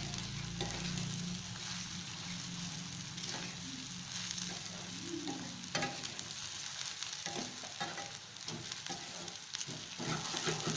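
Onions, green chillies and ginger-garlic paste sizzling in hot oil as they are sautéed, with a spatula scraping and clicking against the pan while they are stirred.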